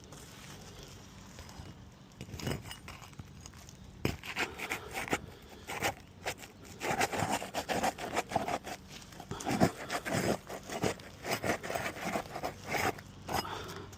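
A tool scraping and clicking against roof shingles while roofing fasteners are worked loose. It comes as a run of short, uneven scrapes starting about four seconds in.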